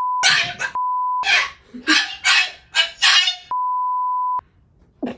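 A steady censor bleep tone sounds three times, the last and longest for nearly a second. It alternates with short, harsh, voice-like calls that the bleeps cut into.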